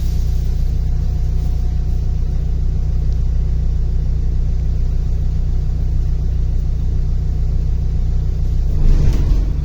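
Cabin of a MAZ-105 articulated city bus under way: a steady low rumble of engine and road noise with a low hum. Near the end comes a short, louder, noisier surge.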